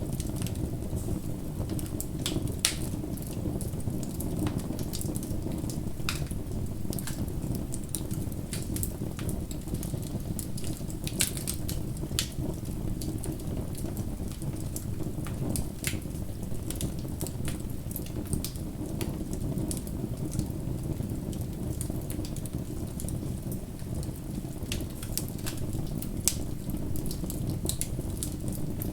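Wood fire burning with a steady low rumble and irregular crackling, scattered sharp pops standing out a few times.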